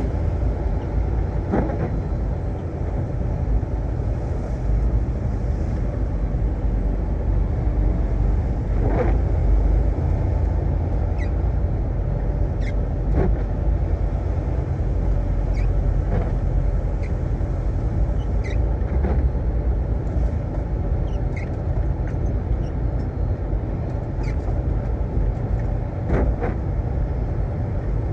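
Semi-truck on the road, heard as a steady low rumble of engine and road noise, with scattered brief clicks and knocks.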